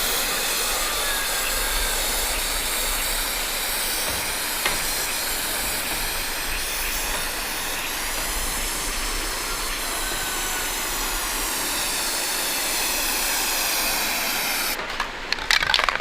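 Electric arc welding on an iron frame: the arc's steady hiss runs on without a break, then cuts off about a second before the end, followed by a few sharp knocks.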